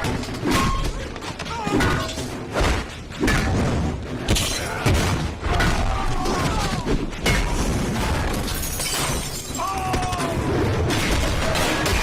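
Film fight-scene sound effects: repeated crashes and impacts with shattering, mixed with background music and wordless shouts.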